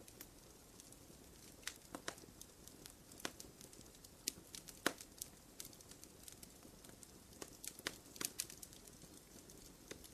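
Wood fire crackling: irregular sharp pops and snaps, the loudest about halfway through, over a low steady hiss of burning.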